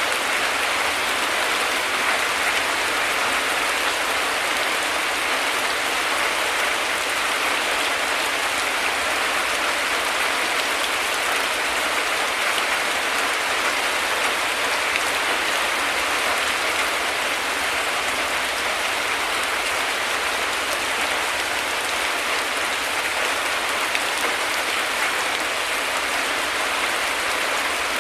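Heavy rain falling steadily: a dense, even hiss with no changes or breaks.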